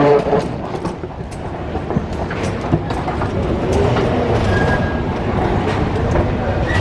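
Vehicle in motion: a steady low rumble with scattered clicks and rattles, and a brief high tone about four and a half seconds in.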